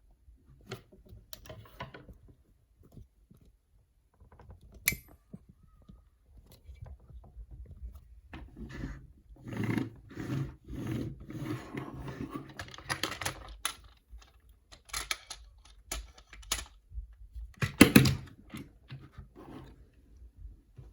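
An action figure and its packaging being handled: irregular clicks, rustles and light knocks of plastic and cardboard. There is a busier stretch in the middle and a louder clatter near the end.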